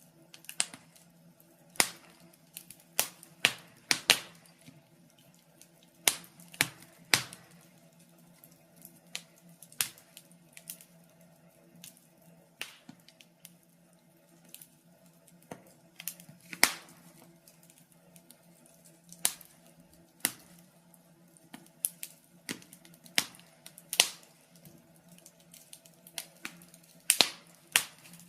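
Wood fire crackling in a fireplace: irregular sharp pops and snaps, a few every second or two, over a faint steady hum.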